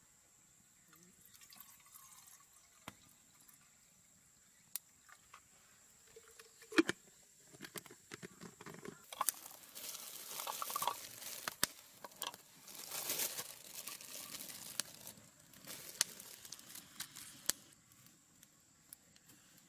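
Liquid pouring and trickling in two stretches in the middle, among scattered clicks and knocks of camp gear being handled.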